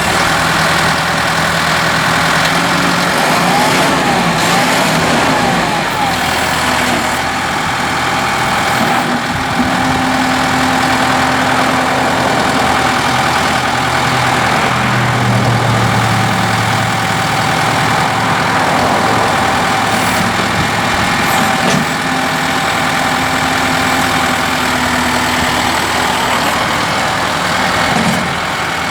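Kubota M5-091 tractor's four-cylinder diesel engine running steadily at idle, just after being started.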